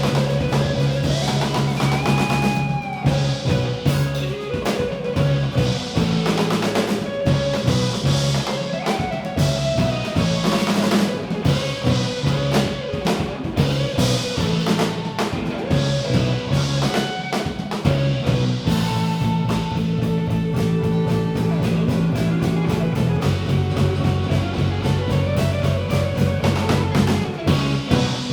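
Live rock band playing an instrumental passage with electric guitar, bass and drum kit, the song ending right at the close.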